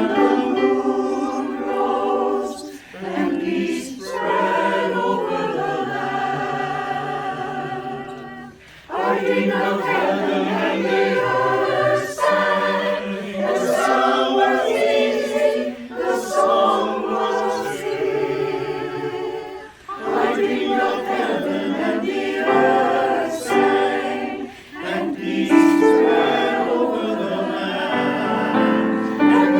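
Choir singing in sustained phrases, with brief pauses between phrases every few seconds.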